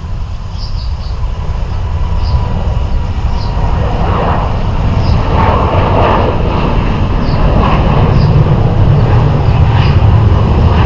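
Jet airliner engines, a loud rumble that builds over the first few seconds and holds strong, with faint short high chirps over it. The sound cuts off abruptly at the very end.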